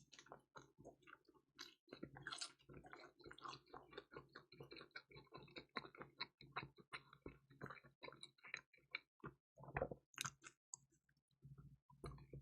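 Close-up chewing of crispy pizza: a dense run of small crunches and mouth clicks, with a brief pause near the end.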